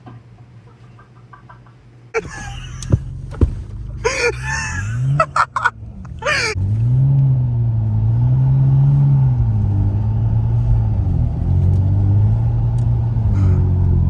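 BMW 335i's turbocharged inline-six engine pulling hard on a snowy road. About two seconds in the sound jumps up with several short loud bursts, and from about six and a half seconds in the engine holds a strong, steady note that wavers up and down in pitch.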